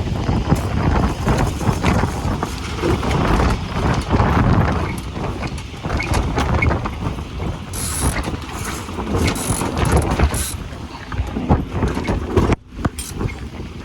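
Strong wind buffeting the microphone aboard a sailing yacht under way, with scattered clicks and knocks from the boat's gear.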